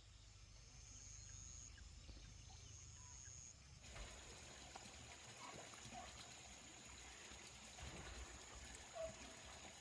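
Near silence with a faint, steady, high-pitched insect trill, like crickets, and a few soft clicks.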